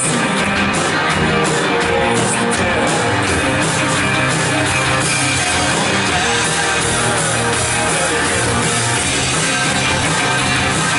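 Live worship band playing rock-style music led by electric guitar, with drums keeping a steady beat.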